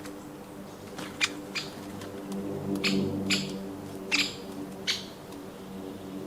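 Garden birds giving short, sharp calls, about six scattered irregularly, over a steady low hum.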